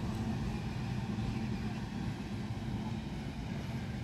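Electric suburban local train (EMU) running past on the track: a steady low rumble of its wheels on the rails.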